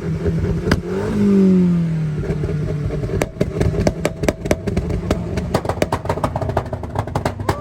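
A performance car's engine is revved hard about a second in and falls back. From about three seconds on, a rapid string of sharp exhaust pops and crackles sounds over the running engine.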